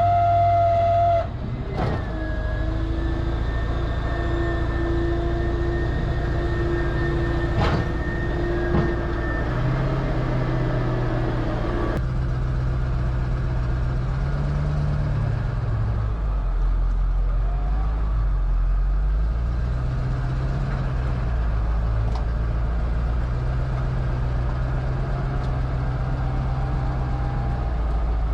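Tow truck driving, heard from inside the cab: a steady drone of engine and road noise whose low pitch rises and falls. A few steady higher tones sound over it in the first several seconds.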